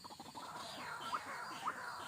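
White-breasted waterhen calling: short rising chirps repeating about twice a second, starting about a second in, over a faint hiss.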